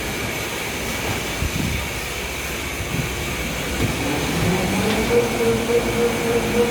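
Pull-out tissue folding machine running on its freshly fitted SKF bearings, a steady mechanical running sound with a thin high whine. About four seconds in, a lower hum comes in, rises slightly and then holds.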